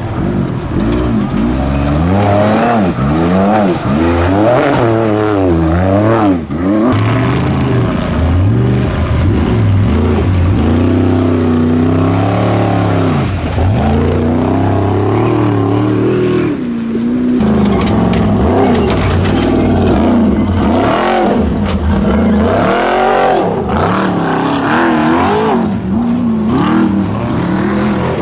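Trophy Truck race engines revving hard as the trucks pass over rough desert terrain, the pitch climbing and dropping again and again as the drivers get on and off the throttle.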